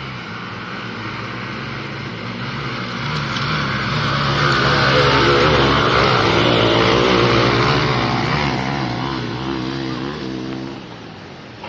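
Dirt bike engines revving hard with wavering pitch, getting louder towards the middle and then fading away near the end.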